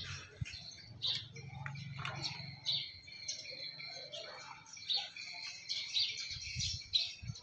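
Small birds chirping over and over, with a few low knocks near the end as mussel shells are handled.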